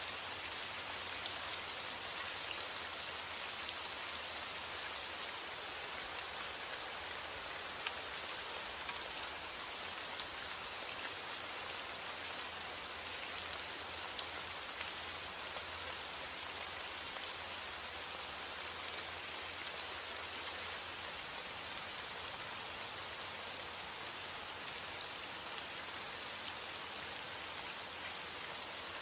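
Steady heavy rain falling on a surface, a dense even hiss made up of countless small drop ticks, with no letup.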